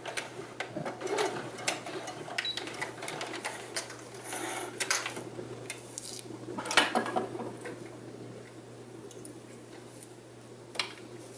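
Home sewing machine at work in short runs, with irregular clicks and rustles of fabric and parts being handled and a sharp knock a little under seven seconds in; quieter near the end.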